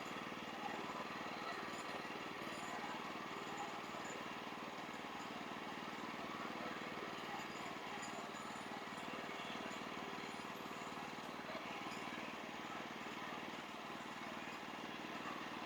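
A faint, steady engine hum with no change in pace.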